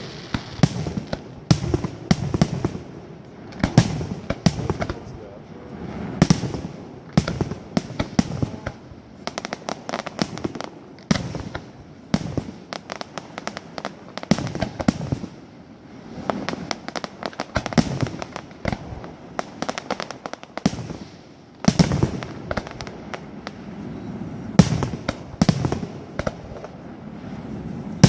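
Fireworks display: aerial shells bursting with sharp bangs, in irregular clusters of several close together, each followed by a rolling echo.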